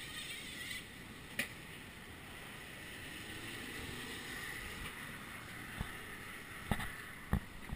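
Steady, muffled rush of hurricane wind heard through a GoPro's sealed waterproof housing, with a few sharp knocks, one about a second and a half in and two near the end.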